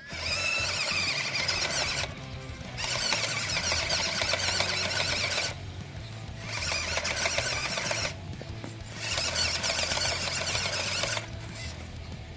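A mini RC truck's small electric motor and gearbox whining in four bursts of about two seconds each, with short pauses between, over steady background music.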